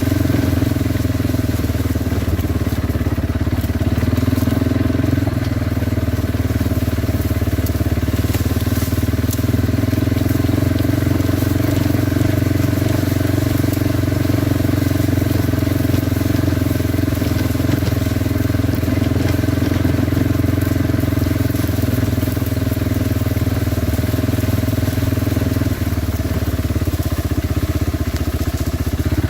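Kawasaki Brute Force 300 ATV's single-cylinder engine running steadily as the quad is ridden along, with a rough noisy background of the ride; the engine note shifts briefly near the end.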